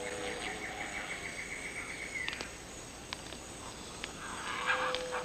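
Tropical rainforest ambience: an insect trills in rapid, even pulses for about two seconds and then stops, over a steady background hiss. A low, held whistle-like note sounds at the start and again near the end, with a few scattered clicks.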